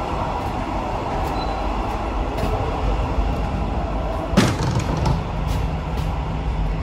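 Passenger train running on the rails: a steady rumble with scattered light clicks, and one sharp clank about four and a half seconds in.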